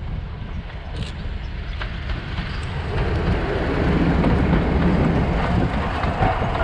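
Train approaching on the line, its rumble growing steadily louder from about halfway through.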